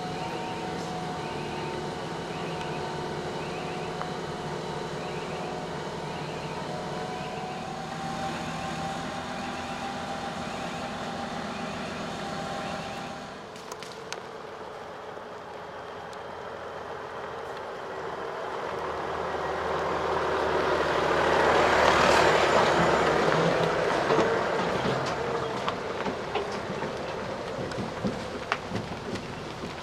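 Heavy truck engine running steadily for about the first 13 seconds, with a repeating high beep early on. Then a heavy vehicle's engine and tyre noise builds to a loud close pass about 22 seconds in and fades.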